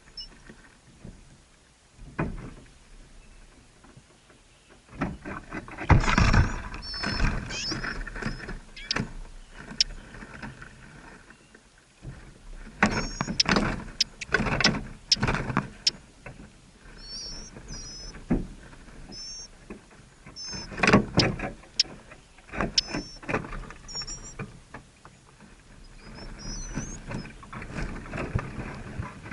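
Short, high bird chirps in small groups, repeated through the clip, over bouts of loud rustling and knocking close to the microphone.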